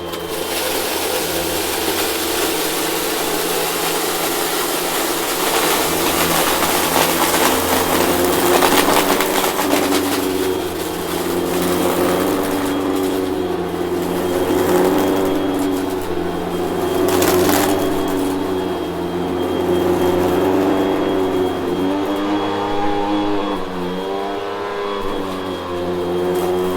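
Vacuum cleaner running, a steady motor whine over rushing airflow, its pitch wavering up and down as the load on the motor changes, with a stronger burst of air noise about 17 seconds in.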